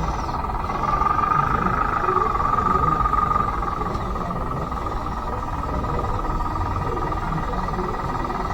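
Electric drive of a converted Bruder D5 RC bulldozer running, a steady motor-and-gearbox whine that grows louder for a couple of seconds about a second in, then settles.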